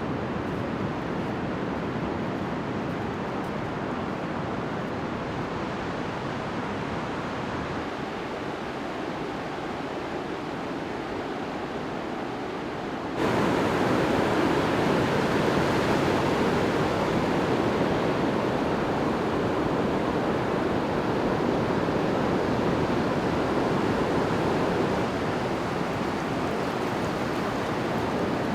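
Ocean surf on the Pacific coast: a steady rush of breaking waves, which steps up abruptly and grows louder about 13 seconds in.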